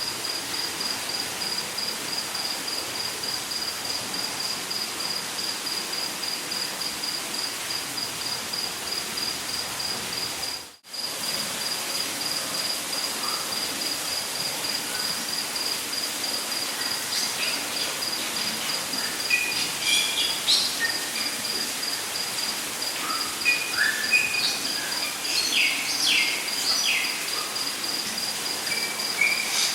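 Rainforest ambience: an insect trilling in fast, regular pulses at one high pitch over a steady, even hiss. Assorted birds call with short chirps and whistles in the latter part. The whole sound drops out briefly about a third of the way through.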